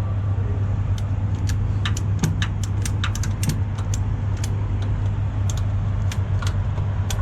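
A heavy diesel engine runs steadily, with many scattered, irregular metallic clicks and clinks over it.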